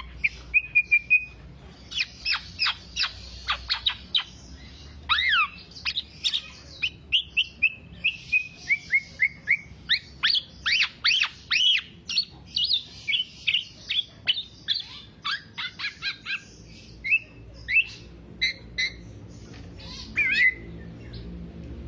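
Black-naped oriole (kepodang) singing a long, continuous bout of rapid, sharp chirping notes that mostly sweep downward in pitch. The notes come in quick runs separated by short pauses.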